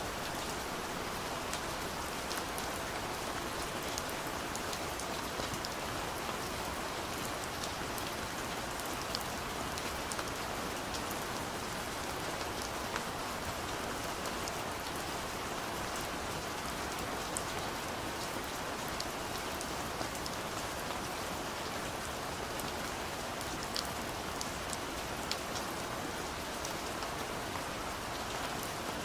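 Soft rain falling steadily on a window, with a continuous patter and scattered individual drop ticks.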